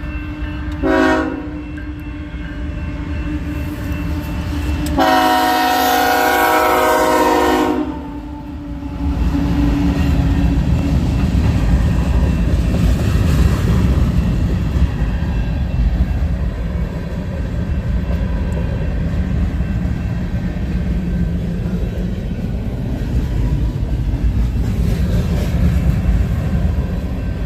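Train horn sounding a short blast, then a long blast of about three seconds a few seconds later. The steady low rumble of the train passing follows.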